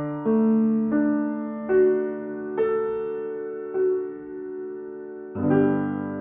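Slow, gentle piano music: single notes struck about one a second and left to ring, then a fuller chord about five seconds in that sustains.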